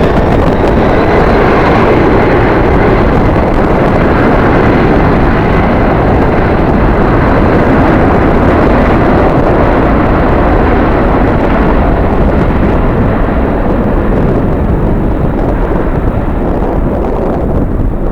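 Jet airliner's engines running in a loud, steady roar with a thin whine at first. The higher part of the roar fades over the last few seconds as the aircraft moves off, leaving a low rumble. Strong wind buffets the microphone.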